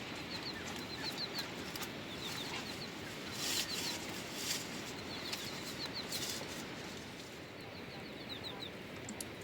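Chickens in a farmyard, with brief flurries of clucking or wing-flapping about three to six seconds in, over a steady hiss. Short high chirps repeat in quick runs throughout.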